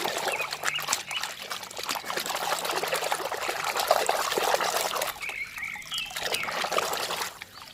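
Water splashing and trickling as a muddy toy vehicle is rinsed and washed by hand, with small clicks and splashes throughout; it dies down shortly before the end.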